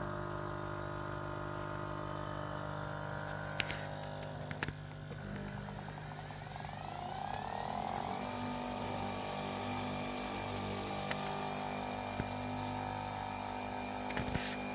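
Capsule coffee machines brewing: a steady pump and motor hum, with two clicks about four seconds in. A rising whine between about four and eight seconds in settles into a new steady hum.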